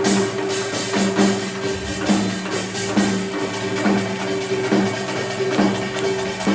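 Live Korean traditional (gugak) ensemble music: sustained melodic tones over a steady percussion beat struck about once a second.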